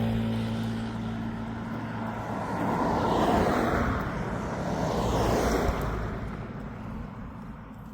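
Motor vehicles passing by: a steady engine hum fades as one pulls away over the first couple of seconds, then two more go by, each swelling and fading, about three and five seconds in.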